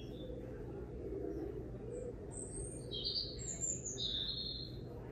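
A small bird chirping: a few short, high chirps, mostly in the second half, over a steady low hum.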